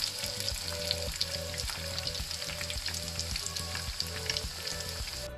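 Batter-coated chicken wings deep-frying in hot oil in a pan: a continuous crackling sizzle with many small spattering pops.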